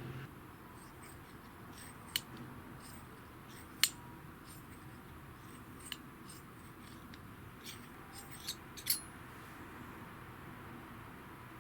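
Light metallic clicks and clinks of metal parts being handled and set down, about half a dozen separate taps, the sharpest about four seconds in.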